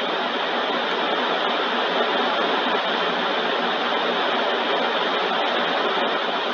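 Steady, even rushing noise of car wash tunnel equipment running.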